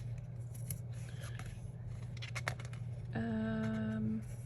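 Scissors snipping paper, several short sharp cuts in the first couple of seconds, with a steady low hum throughout. About three seconds in comes a held, steady-pitched hum of about a second.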